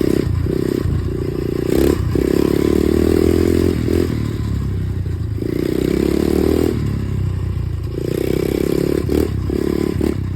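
Dirt bike engine running while being ridden, its throttle opened and eased off several times. There are a few short knocks and rattles in between.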